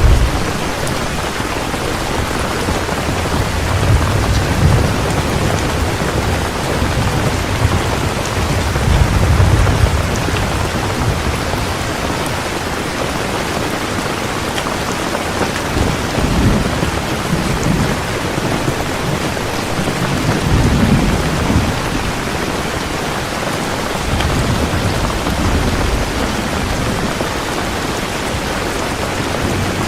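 Heavy rain falling steadily, with several low rumbles of thunder swelling and fading.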